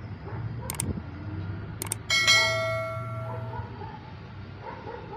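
A bell-like metallic ring, struck once about two seconds in and fading over about a second and a half, after a few short clicks, over a steady low rumble.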